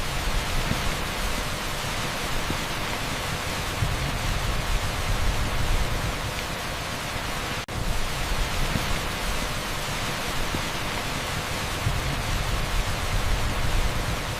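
Heavy downpour on an asphalt street: a dense, steady hiss with a low rumble underneath, cutting out for an instant about halfway through.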